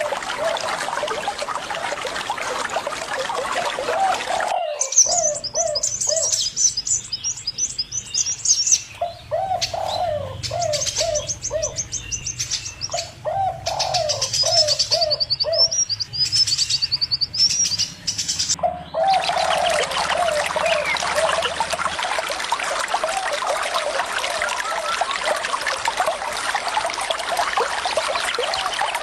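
Running water with birds calling over it: short mid-pitched notes repeated in quick series. About five seconds in the water sound cuts off abruptly, leaving high twittering chirps alternating with groups of quick lower notes, and the water comes back just as abruptly about 19 seconds in.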